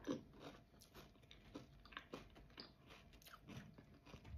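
Faint chewing of a bite of Dubai chocolate, its crisp kataifi-and-pistachio filling crunching between the teeth in small, irregular crackles.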